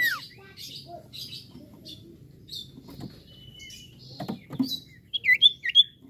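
Common iora (cipoh) calling: a falling whistle at the start, then scattered short chirps and thin whistles, and three loud looping whistled notes near the end. A couple of soft knocks come about four seconds in.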